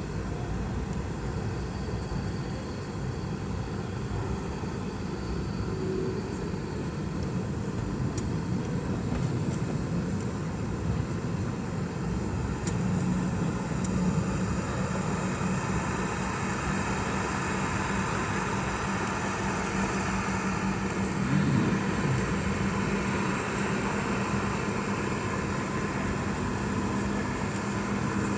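Boeing 717's rear-mounted Rolls-Royce BR715 turbofan engines running steadily, a continuous rumble and hiss with a low hum that grows a little stronger about halfway through.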